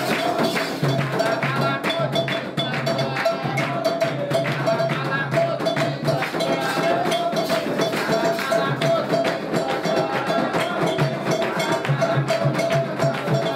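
Candomblé ritual music: a fast, steady percussion pattern of hand drums with a struck metal bell, the kind of agogô-and-atabaque playing used for Xangô.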